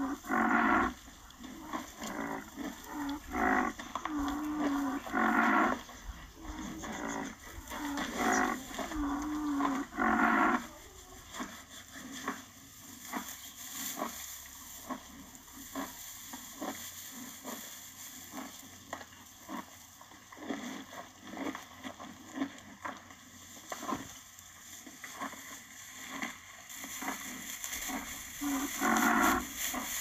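Rhinoceros giving a run of short, low calls in the first ten seconds or so, then a long stretch of faint, irregular clicks, then one more call near the end.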